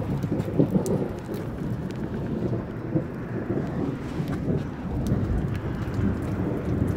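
Thunder rumbling on, swelling near the start, with scattered raindrops ticking.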